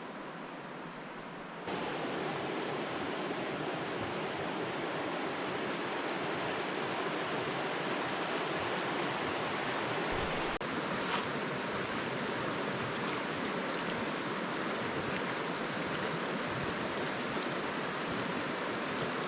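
A river rushing, a steady noise that gets louder about two seconds in and changes slightly about halfway through.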